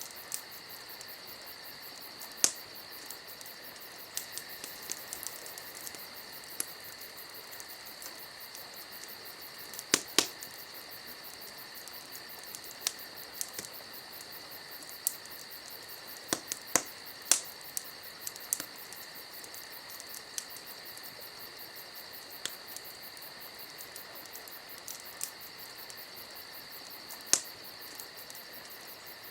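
Wood fire crackling: irregular sharp pops and snaps, a few of them loud, over a steady high-pitched hiss.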